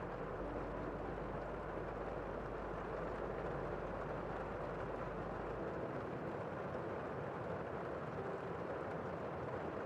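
Steady rain falling, a dense even patter heard from indoors, muffled and low.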